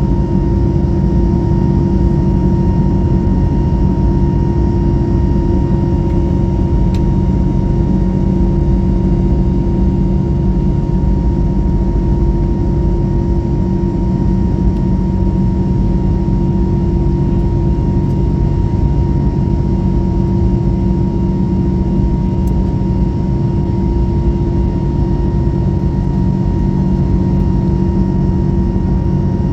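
Steady cabin noise of an Airbus A321neo in flight: a constant airflow rush with fixed engine and air-conditioning hums.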